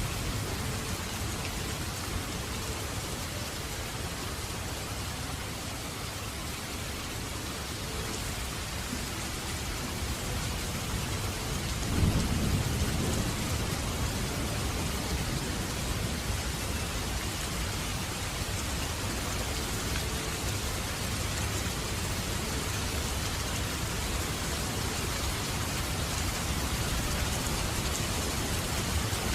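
Heavy rain falling steadily, a dense hiss of raindrops. About twelve seconds in, a low rumble of thunder swells and fades over a couple of seconds.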